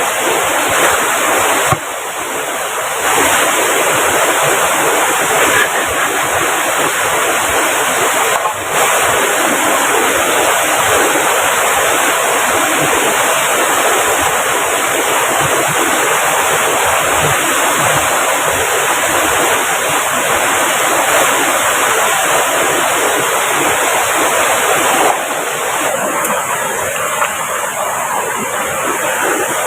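River water rushing steadily over rocks, a loud continuous noise with small shifts in level a few times.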